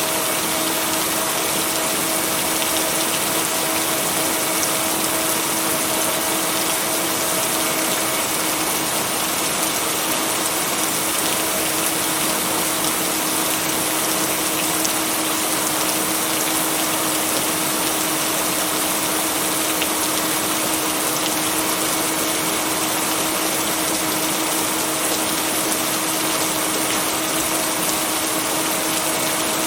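Steady, unbroken rain noise with a constant low hum tone running under it; no thunder.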